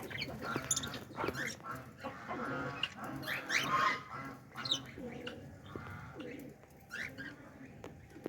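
Budgerigars chirping and chattering in quick, short warbling calls.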